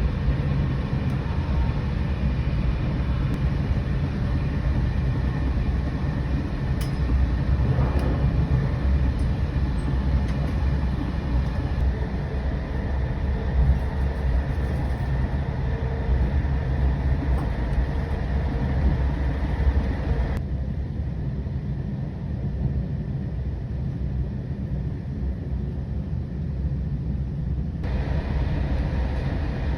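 Moving passenger train heard from on board: a steady low rumble of the running gear on the rails with a hiss above it. The hiss drops away abruptly about twenty seconds in and comes back near the end, while the low rumble goes on.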